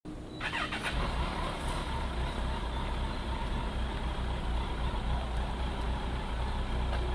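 A car engine idling with a steady low rumble, with a few brief higher-pitched sounds about half a second in.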